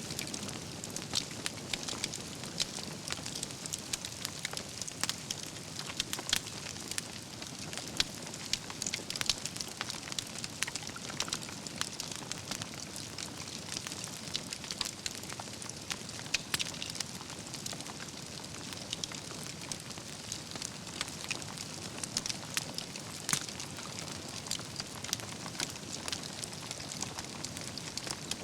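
Wood campfire burning, logs crackling with frequent irregular sharp pops over a steady hiss.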